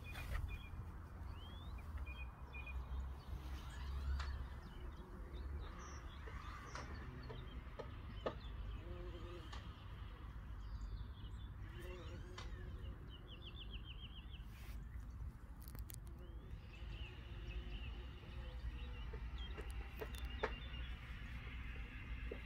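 Birds chirping now and then in the open, with a short rapid trill about halfway through, over a steady low rumble.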